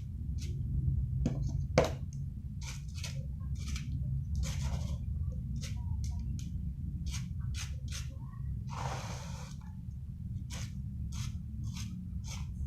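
Kitten scratching and digging in cat litter: short scratchy strokes about twice a second, with a sharper one about two seconds in and a longer scrape about nine seconds in. A steady low hum runs underneath.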